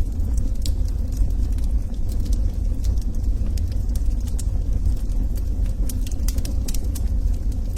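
Wood fire burning in a fireplace: irregular sharp crackles and pops of the logs over a steady low rumble, with the crackles coming more thickly near the end.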